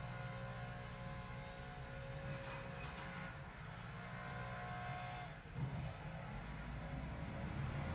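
Low steady rumble of a parked car's engine idling, heard from inside the cabin, with a single thump about five and a half seconds in.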